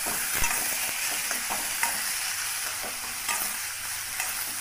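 Tomatoes, small onions and garlic sizzling in a little oil in a stainless steel kadai while a steel spatula stirs them, scraping and clinking against the pan now and then.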